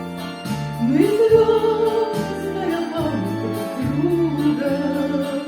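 A song with a sung vocal line: long held notes that slide up into pitch, over a steady pulsing accompaniment.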